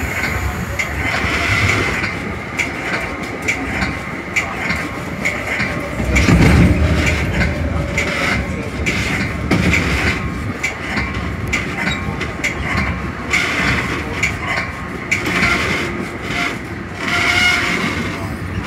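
Metra bilevel commuter train running at speed, heard from inside its front cab car: steady rail noise with frequent clicks of the wheels over rail joints and switches, and a louder low rumble about six seconds in.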